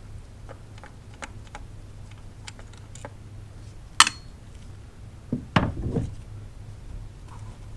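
Hand tools and metal parts clicking and clattering while coil packs are unbolted and swapped on a 2002 Chevrolet Avalanche engine: scattered light clicks, a sharp click about four seconds in and a louder clatter about five and a half seconds in.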